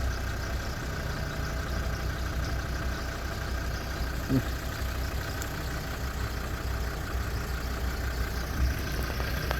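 Game-drive vehicle's engine idling steadily, with a faint short sound about four seconds in.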